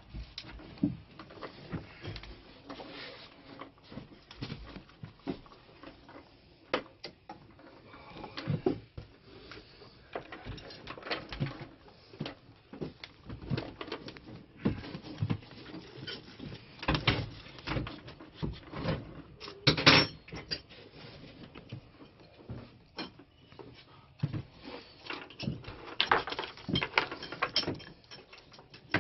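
Irregular knocks, clicks and clatter of hand tools and engine parts being handled, with one louder knock about two-thirds of the way through.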